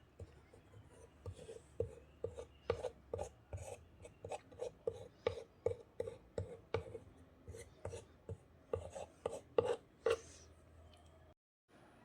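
Quick, repeated strokes of hand work on paper and card at a crafting desk, about two to three a second, broken off by a moment of complete silence near the end.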